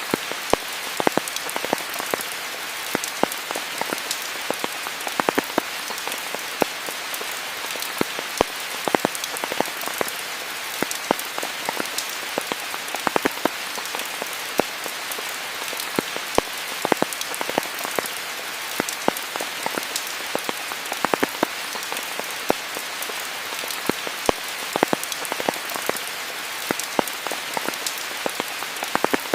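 Steady rain falling, an even hiss with many sharp, irregular ticks of close drops hitting surfaces.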